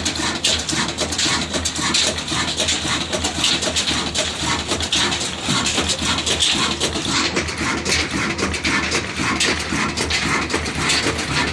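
Stationary single-cylinder diesel oil engine running steadily, with a continuous rapid clatter of knocks over a low steady drone.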